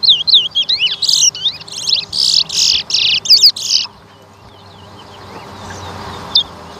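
Towa-towa (chestnut-bellied seed finch) singing a competition song: a fast run of sliding, chirping whistled notes that turns into a louder, harsher run of notes, stopping about four seconds in.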